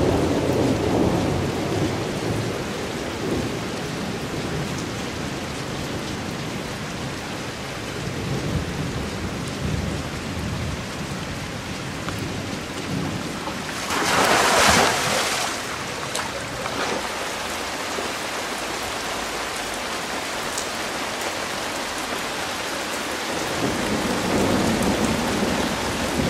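Heavy rain falling steadily, with low rumbles of thunder near the start and again near the end. About 14 s in, a loud splash as a polar bear plunges at the pool's edge.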